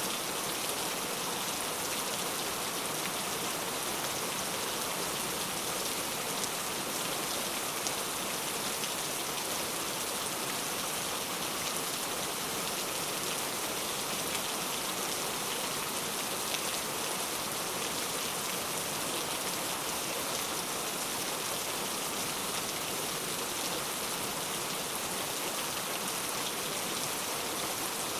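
Heavy rain falling steadily, a dense even hiss of many drops striking a surface, with no thunder.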